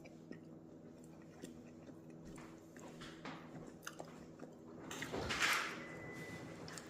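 A person chewing a mouthful of cornbread salad, faint and wet, with small clicks as the peppers crunch. A brief louder hiss comes about five seconds in.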